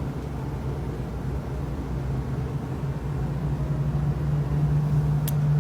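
Steady low hum over a low rumble, growing a little louder in the last second or two, with one short sharp click near the end.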